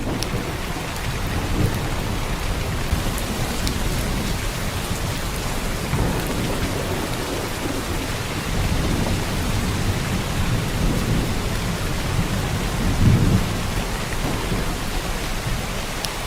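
Heavy downpour of rain, a steady dense hiss, with a deep low rumble underneath that swells briefly near the end.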